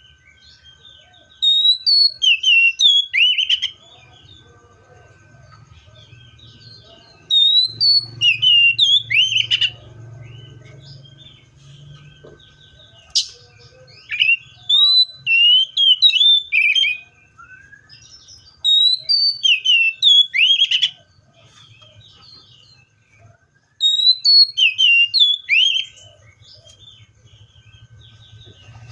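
Seychelles magpie-robin singing: about five loud bursts of quick, sliding whistled and chirped notes, each a couple of seconds long, with short pauses between.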